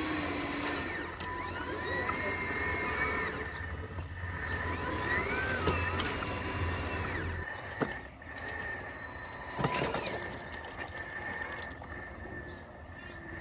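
Small electric motors of radio-controlled construction models whining, the pitch gliding up and down as they speed up and slow down. There are a couple of sharp clicks in the second half.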